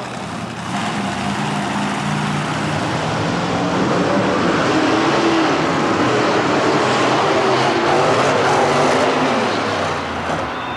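Monster truck engine running at high revs, getting louder about a second in and easing off near the end.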